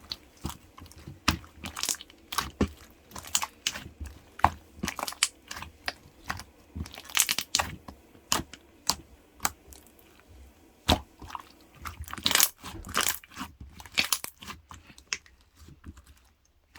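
Close-up chewing and biting of white jjondeugi, a Korean starch snack, with a string of sharp, irregular crunches and clicks, about two or three a second.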